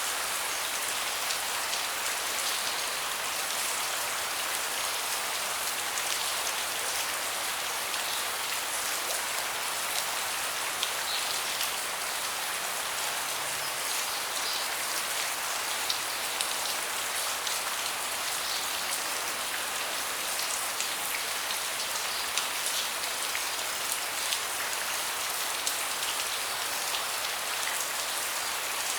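Steady rain falling on a deck, an even hiss with many individual drops ticking sharply through it.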